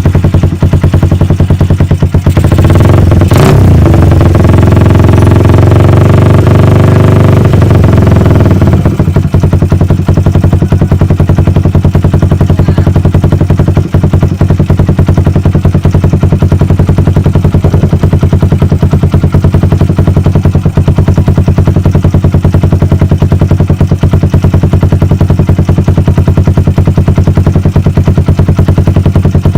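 Suzuki Satria F150 motorcycle's single-cylinder engine running loud through an aftermarket racing exhaust: a sharp throttle blip about three seconds in, raised revs held until about nine seconds in, then a steady idle.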